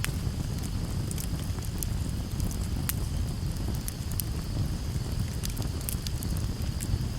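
Campfire burning, with irregular sharp crackles and pops over a steady low rumble. A faint steady high-pitched hum sits underneath.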